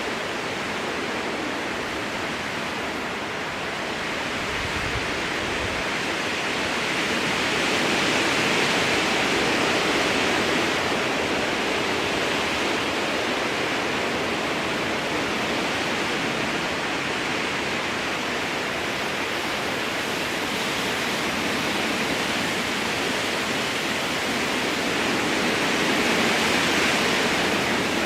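Strong wind blowing through a spruce forest: a steady rushing of moving needles and branches that swells a little in gusts, once about a third of the way in and again near the end.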